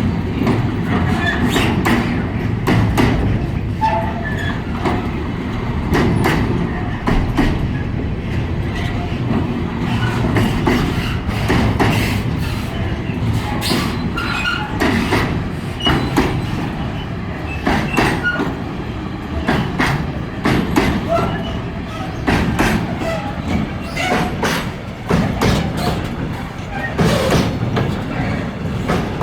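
Freight train wagons rolling slowly past, with a steady low rumble and irregular clacks and knocks from the wheels over the rail joints.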